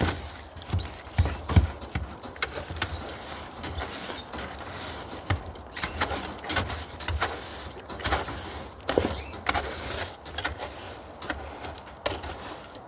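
A brush scrubbing inside a wire bird cage, with irregular clicks, knocks and scrapes against the bars and tray.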